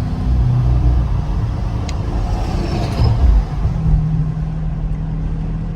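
2023 Dodge Scat Pack Widebody's 6.4-litre Hemi V8 on its stock exhaust, cruising at low speed, heard from inside the closed cabin. A brief louder bump comes about three seconds in, and a steady low drone sets in about four seconds in.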